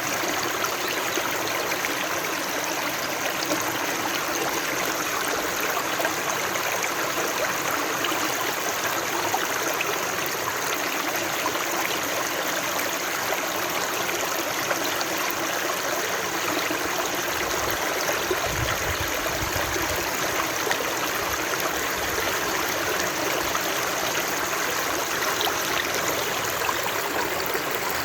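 Running water rushing steadily, an even unbroken splash and hiss.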